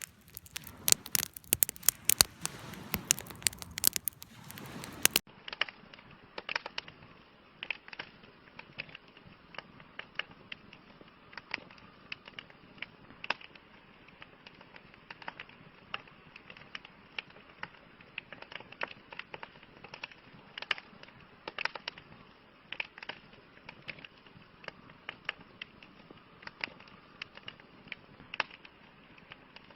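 Wood campfire crackling and popping. About five seconds in, the dense, loud crackles give way abruptly to softer, duller, sparser pops.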